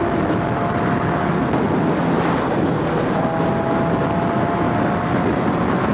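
Motorcycle riding along at steady speed, its engine and the rush of wind over the microphone making a continuous noise, with faint steady engine tones that shift a little about three seconds in.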